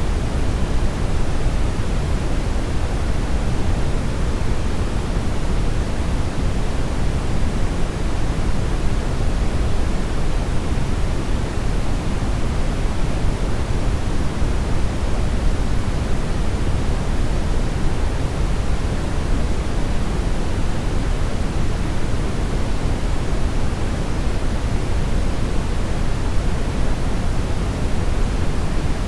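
Steady brown noise: an even, unchanging rumbling hiss, heaviest in the bass and falling away toward the treble.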